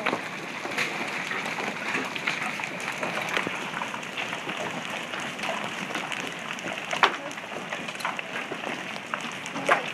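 Large hailstones pelting down in a dense, steady clatter of impacts, with a few louder single knocks, one about seven seconds in and another near the end.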